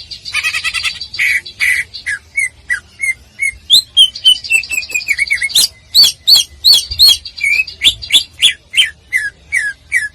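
A cucak ijo (green leafbird) singing a fast, varied song. It opens with a dense buzzy trill, then gives spaced whistled notes, and from about four seconds in a rapid loud run of sharp downward-sliding whistles, about three a second.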